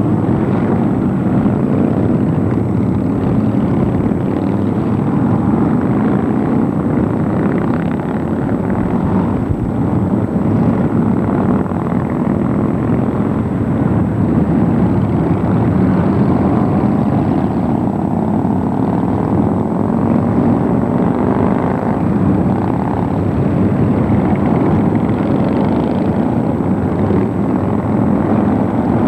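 Continuous engine noise of many motorcycles running together, a dense steady rumble with faint rising and falling engine pitches.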